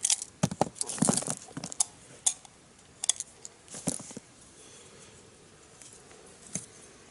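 Cartridges being pressed one by one into a pistol magazine: a quick run of short, sharp clicks over the first four seconds, then a single click near the end.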